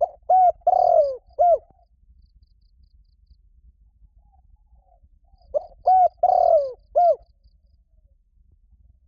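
Spotted dove cooing. Two phrases about five seconds apart, each of four coos, with the third coo longer and falling in pitch.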